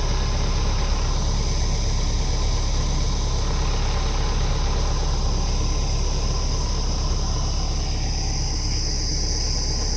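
A motor engine running steadily at an even speed, with a steady high-pitched hiss above the low rumble.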